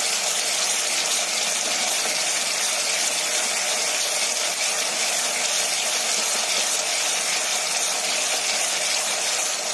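Masala (spice paste) sizzling steadily as it fries in hot oil in a pan while being stirred with a wooden spoon. The oil has separated from the masala, the sign that the bhuna frying of the curry base is nearly done.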